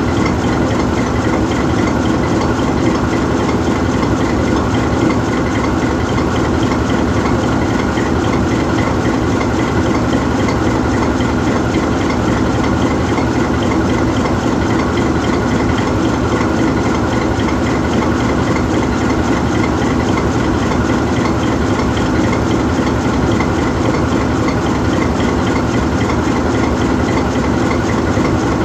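GE U20C diesel-electric locomotive's V12 diesel engine idling steadily with the locomotive standing still.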